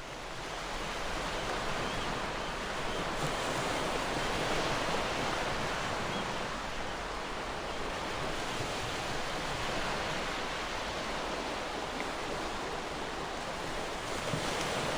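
Gentle ocean waves washing ashore: a steady surf hiss with slow, mild swells, fading in over the first couple of seconds.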